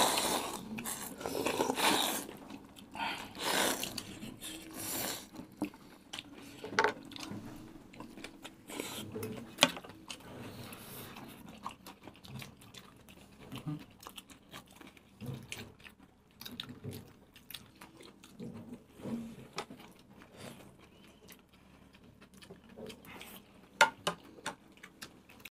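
Several people chewing and biting into burgers and other food: irregular wet chewing and crunching, louder in the first few seconds. Scattered sharp clicks, with a cluster near the end.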